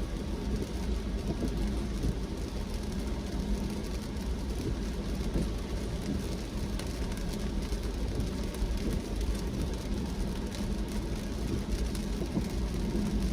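Car driving in the rain: a steady low rumble of engine and tyres on a wet road, with a few faint ticks of raindrops.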